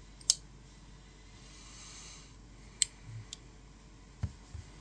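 A few sharp metallic clicks and light knocks as pocket knives are handled and set down.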